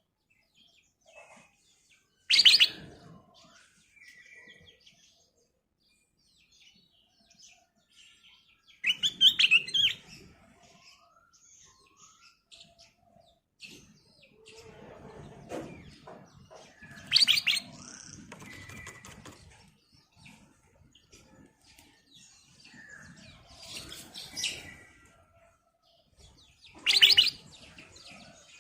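Black-crested bulbul singing: four loud, quick bursts of bright phrases spaced several seconds apart, with fainter chirps in between.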